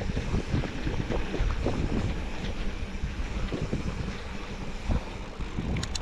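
Wind buffeting the microphone over the low rumble of a moving vehicle, with a few sharp clicks near the end.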